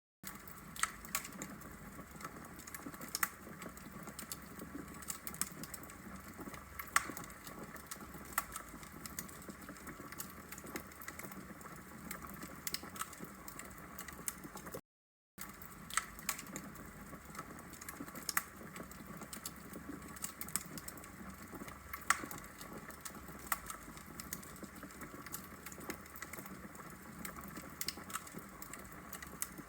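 Wood logs burning in a fireplace, crackling: irregular sharp pops and snaps over a soft steady hiss, with a brief cut to silence about halfway.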